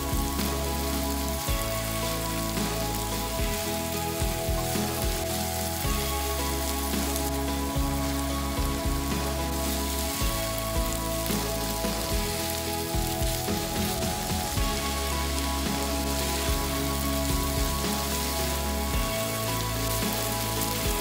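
Background music with long held chords, over the steady sizzle of minced beef and vegetables frying in a pan as they are stirred with a spatula.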